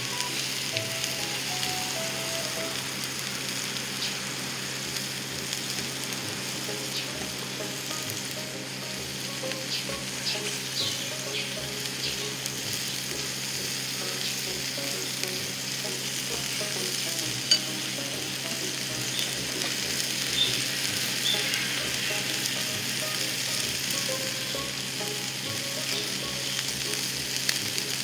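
Beef tongue sizzling on a grill over a fire pit: a steady frying hiss with scattered small pops, and one sharp pop about halfway through.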